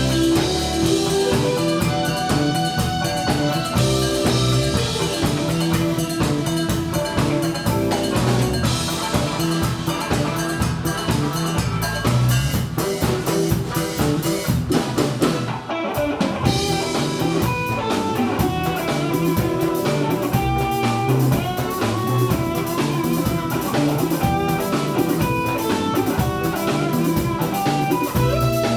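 Band music: a drum kit keeping a steady beat under bass and guitar, with a brief break in the middle.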